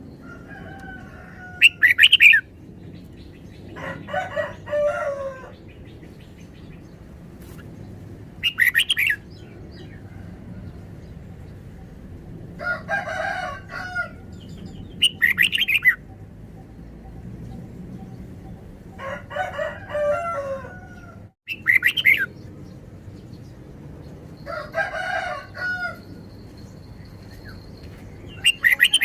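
A red-whiskered bulbul sings short, bright, loud phrases, five times at about seven-second intervals. Between them a rooster crows four times, each crow longer and lower.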